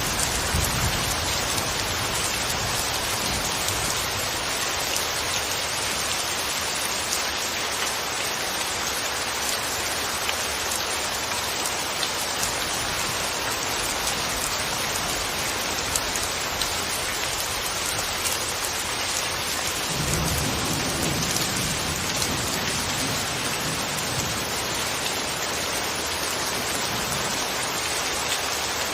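Steady rain falling, with small individual drop hits. A low rumble of thunder comes at the start and again about twenty seconds in.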